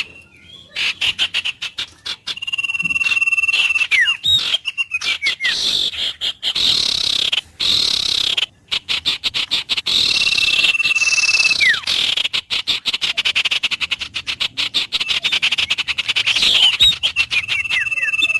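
Wild birds calling: a held whistled note that ends in a falling slur comes about three times, over a dense, fast-pulsing chorus of calls. The sound cuts out abruptly for a moment several times.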